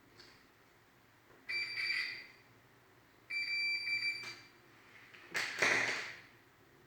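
Microwave oven's control-panel buzzer beeping twice, each a steady high beep just under a second long. Near the end comes a short burst of noise.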